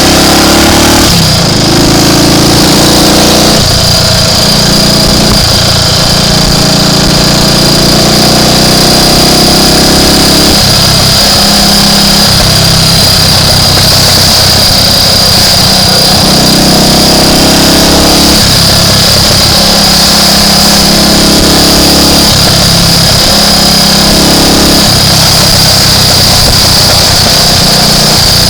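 Triumph Tiger Cub's single-cylinder four-stroke engine running on the move, its revs rising and falling every few seconds through gear changes and throttle. The engine has an intermittent misfire.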